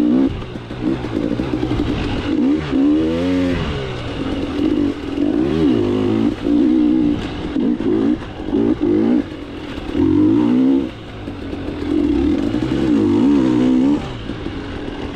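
KTM 300 two-stroke dirt bike engine under a rider, revving up and down over and over as the throttle opens and closes, with short lulls between pulls.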